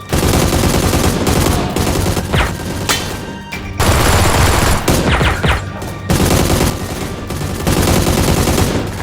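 Rapid automatic gunfire, a dubbed-in sound effect, in several long bursts with short breaks between them.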